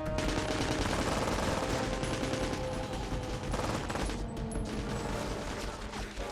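Rapid automatic gunfire, a dense volley of shots that is heaviest over the first three and a half seconds and then thins out, over a dramatic music score.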